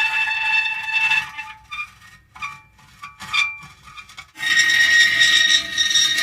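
Metal creaking: a long, steady, high-pitched creak that stops about a second in, a few short broken creaks, then another long creak that starts a little after four seconds in.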